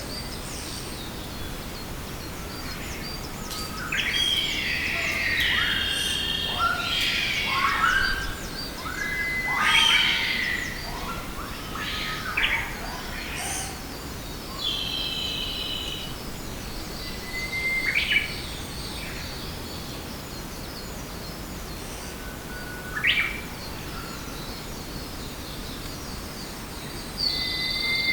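Forest birds calling: a series of short chirps and sweeping whistled notes, busiest in the first half and then coming every few seconds, over a steady background hiss.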